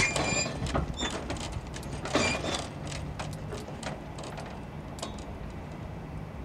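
Tail end of a passing train moving away: wheels click and knock irregularly over the rails with a couple of brief high squeals, near the start and about two seconds in, and the sound fades out.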